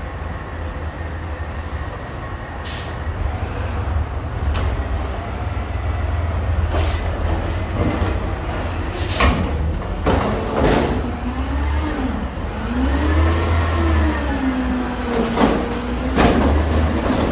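Garbage truck's diesel engine running with a steady low rumble, while its hydraulics whine, rising and falling in pitch from about halfway through. Several sharp metallic bangs and clanks of the lifting and packing gear break through.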